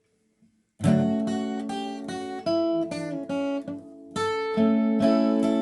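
Acoustic guitar starting about a second in, playing a melody over strummed, ringing chords.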